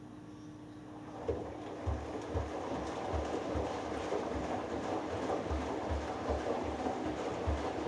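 Hoover Dynamic Next washing machine in the wash phase of a delicates cycle: about a second in the drum starts turning, and the laundry and water slosh with soft low thumps roughly twice a second.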